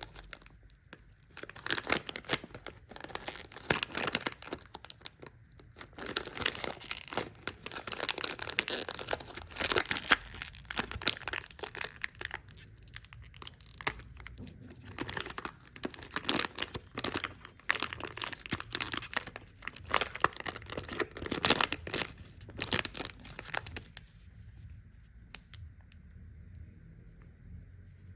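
Candy packaging crinkling and tearing in many quick, irregular rustles, quieter for the last few seconds.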